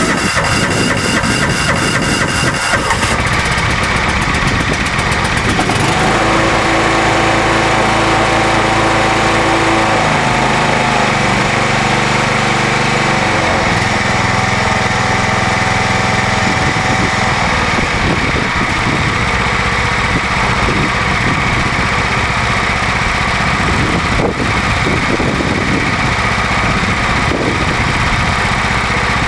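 John Deere LX172 lawn tractor's single-cylinder Kawasaki engine on a cold start after three months sitting. It catches at once and runs steadily, with its pitch shifting a few times in the first quarter minute.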